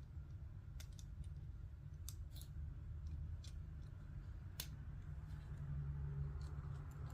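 Lego plastic pieces being handled and pressed together: scattered, irregular sharp clicks a second or so apart, over a low steady hum.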